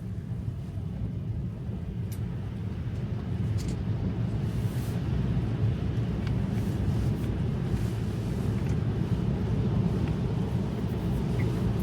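Road and tyre noise inside a Tesla's cabin on a wet road: a steady low rumble that grows louder over the first five seconds and then holds, with a few faint clicks.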